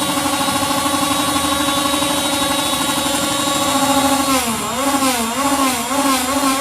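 A loud, sustained horn blast held at one steady pitch, which wavers up and down for a couple of seconds past the middle before settling again, made as protest noise.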